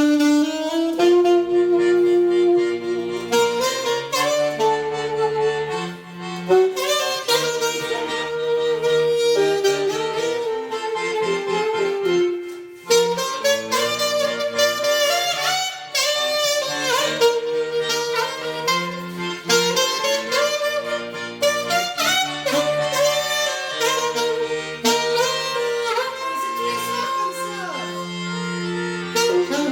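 Fanfare band of saxophones and brass playing an upbeat tune over a repeating low bass line; it starts abruptly.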